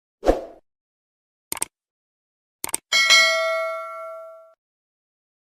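Edited sound effects over dead silence: a short dull thump, two quick clicks, then a bright bell-like ding that rings out and fades over about a second and a half.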